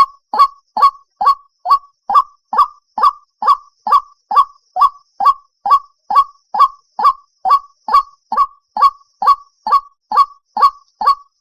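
White-breasted waterhen calling: a steady run of short, evenly spaced "kwak" calls, a little over two a second, recorded as a decoy call for bird-trap loudspeakers.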